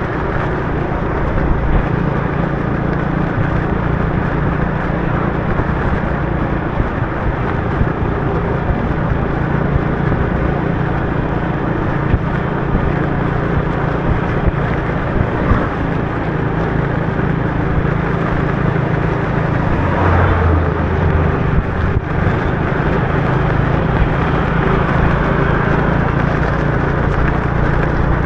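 Motorbike engine running steadily under way, with a continuous hum and tyre and rain noise on a wet road. A brief louder low note comes in about two-thirds of the way through.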